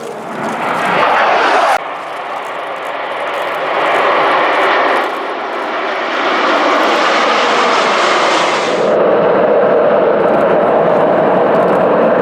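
Military jet aircraft engine noise, a loud steady roar that changes abruptly about two, five and nine seconds in, as separate takes are cut together.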